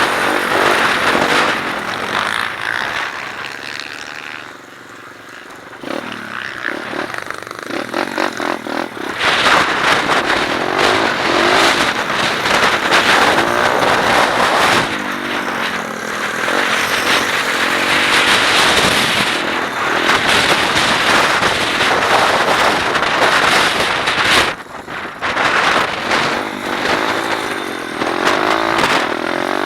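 125cc pit bike engine being ridden hard, its pitch rising and falling again and again as the throttle opens and closes. It drops back to a low, quieter note about four to six seconds in and cuts out briefly near twenty-five seconds. A steady rush of wind noise on the camera microphone runs under the engine.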